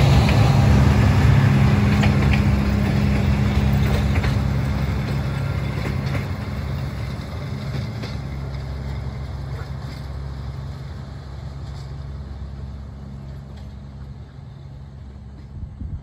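Passenger train pulling away: a steady low rumble with a low drone, fading as it moves off, with a few faint clicks of wheels over rail joints.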